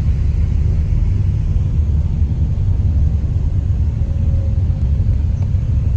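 Steady low rumble that sets in at the start and holds without a break.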